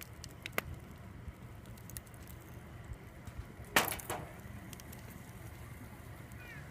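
Wood bonfire crackling: scattered sharp pops over a steady low rumble, with the loudest, a quick cluster of cracks, a little before four seconds in.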